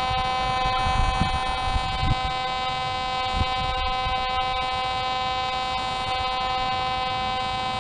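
Metal detector in pinpoint mode giving a steady, unbroken low buzzing tone over a target that it reads as a quarter, with a few soft low knocks in the first few seconds.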